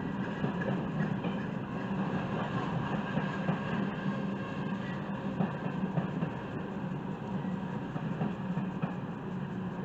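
Freight train of tank cars rolling steadily past, steel wheels rumbling and clicking over the rails.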